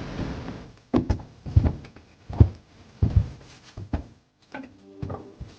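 A steady vehicle engine noise dies away in the first second. Then comes a series of irregular heavy thuds and knocks, roughly a dozen, some in quick pairs.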